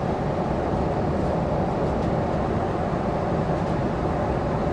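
Airliner cabin noise in flight: the steady drone of the engines and the air rushing past the fuselage, even and unchanging.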